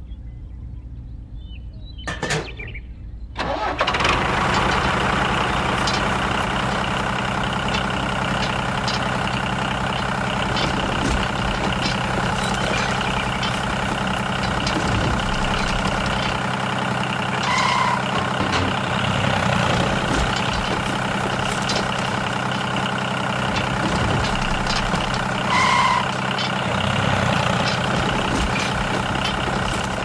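Tractor engine sound starting abruptly about three and a half seconds in, then running steadily, as the model tractor pushes gravel with its front blade. Twice later on, a short high note sounds over the engine. Before the engine starts there are a few light clicks.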